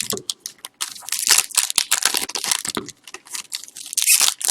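Trading-card pack wrappers being torn open and crinkled by hand: a run of quick, irregular rustles and crackles, pausing briefly before starting again near the end.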